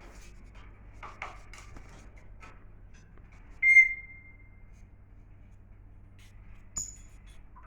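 Pet bird giving one loud, steady whistled note lasting about a second, and a short high chirp near the end.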